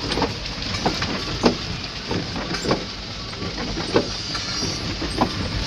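Truck engine running as it drives over a rocky dirt road, with a steady low rumble and irregular knocks and clunks every second or so as the truck jolts over the stones.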